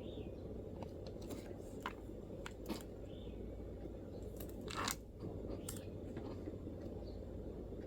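Sparse MacBook keyboard keystrokes, a handful of separate clicks rather than steady typing, with a longer scrape-like burst just before five seconds in, over a steady low background hum.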